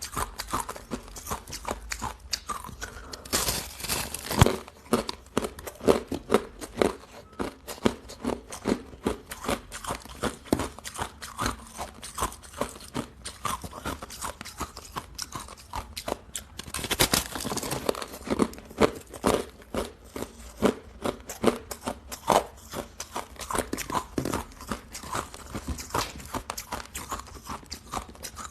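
Close-miked crunching of hard ice being bitten and chewed: a rapid run of sharp cracks, a few a second, with two longer, louder crunches, one about four seconds in and one past the middle.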